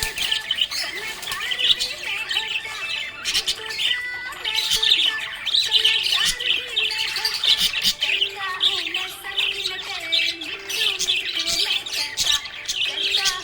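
Budgerigars chirping and warbling continuously: a dense stream of quick high chirps and squawks over lower chattering tones.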